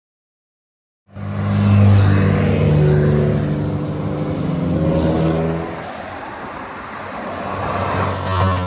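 Classic car's engine running hard and accelerating, its pitch climbing over a few seconds and then dropping back. It cuts in abruptly about a second in and is cut off at the end.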